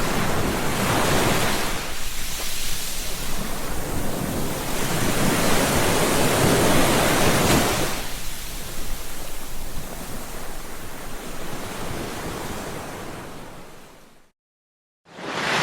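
Ocean surf: waves breaking and washing in, swelling about a second in and again in the middle, then fading out to a short silence near the end before the surf starts again.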